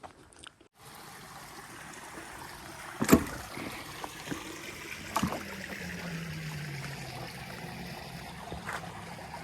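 Steady rush of a flowing creek or waterfall, starting about a second in. Two sharp knocks cut through it, about three and five seconds in, the first the loudest.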